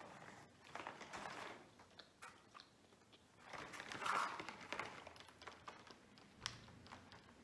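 Quiet chewing of chocolate with small mouth clicks, then a cardboard advent calendar box being picked up and handled, with a louder rustle about four seconds in.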